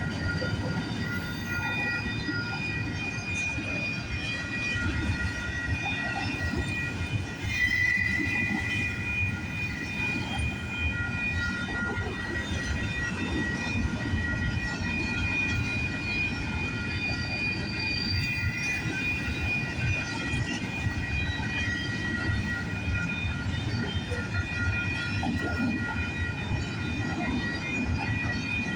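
Freight train cars rolling steadily past: a continuous low rumble and rattle of wheels on rail, with high steel wheel squeal coming and going on and off.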